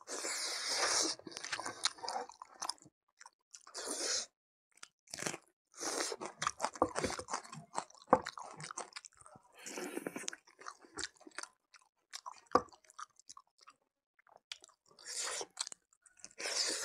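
Close-up sounds of a person biting and chewing buffalo meat eaten by hand, in irregular bursts with sharp clicks and short pauses, including a quiet gap of about two seconds near the end.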